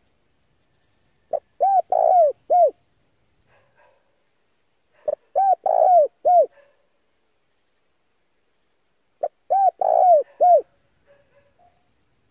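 Male spotted dove (tekukur) cooing: three phrases about four seconds apart, each of four or five short, arching coos.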